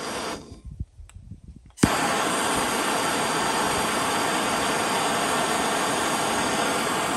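Handheld propane torch lit with a sharp pop a little under two seconds in, then burning with a loud, steady hiss. A fainter hiss cuts off about half a second in, before the torch lights.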